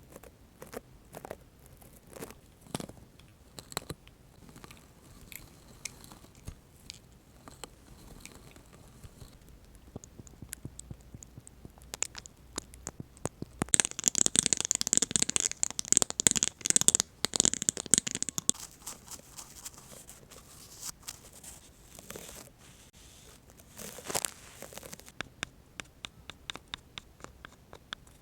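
Close-miked ASMR props being tapped, scratched and rustled: scattered small clicks and taps, with a louder stretch of dense crackling in the middle and a run of quick, even ticks near the end.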